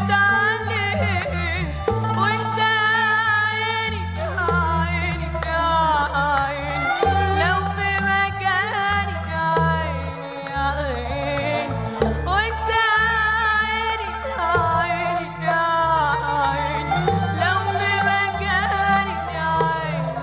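A band playing an Egyptian Arabic song in Middle Eastern style: a wavering melodic lead over steady bass notes that change every second or so.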